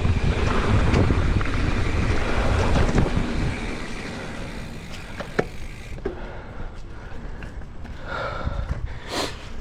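Wind buffeting the microphone of a camera on a mountain biker riding fast down a dirt jump line. After about three and a half seconds it eases to quieter rolling with scattered clicks and knocks.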